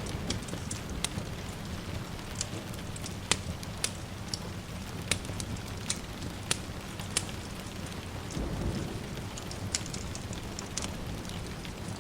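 Wood fire crackling with sharp, irregular pops over steady rain, and a low rumble of distant thunder swelling briefly about eight and a half seconds in.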